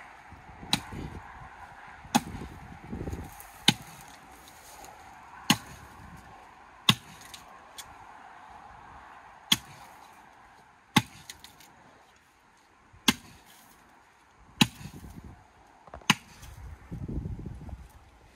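Sharp single knocks or strikes, about ten of them, one roughly every one and a half seconds, with low rumbling between them.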